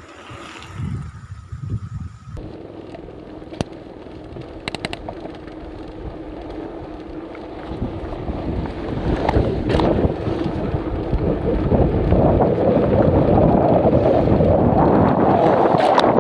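Wind buffeting the microphone during a bicycle ride, a rough rumble that swells and grows loud over the second half.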